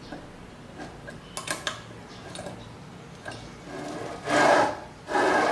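A few light clicks of metal parts being handled, then two loud rasping scraping strokes near the end, like a file or abrasive rubbed across a part.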